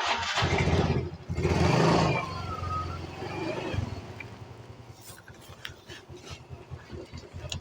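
A motorcycle engine running, loudest in two surges in the first two seconds, then settling quieter.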